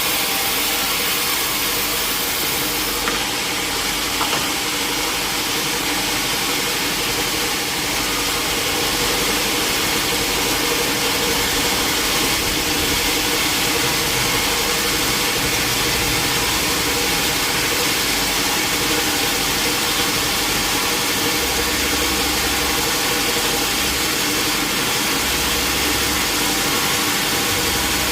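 Sawmill machinery running steadily: an engine-like hum with a constant hiss, unchanging throughout.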